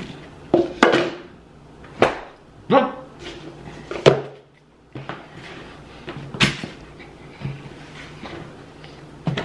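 Close-miked eating sounds: chewing and lip-smacking heard as sharp separate smacks, with a few short hums of the voice. About four seconds in, french fries are tipped from a paper cup onto the tray.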